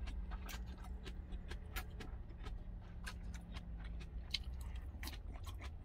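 Close-up chewing with many small, sharp wet mouth clicks, irregular and several a second, over a steady low engine hum in the truck cab.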